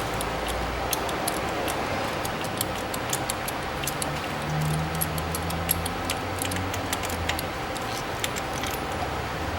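Irregular light metallic clicks and clinks of hand tools working on the engine's spark plugs, over a steady low hum.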